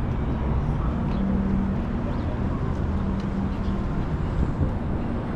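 Downtown city street traffic: a steady low rumble of vehicles, with a droning engine hum that fades in and out.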